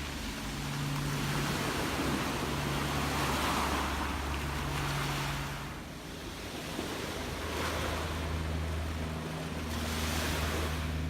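Gentle waves washing in, the surf swelling and falling back twice, with a steady low hum underneath.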